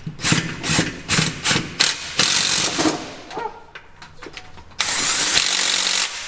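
Power tool running in transmission bolts. There are about five short bursts in the first two seconds, then a longer run, and a steady run of over a second near the end.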